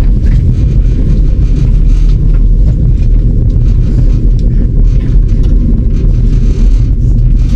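Loud, steady low rumble of a moving passenger train, heard from inside the carriage, with faint scattered ticks over it.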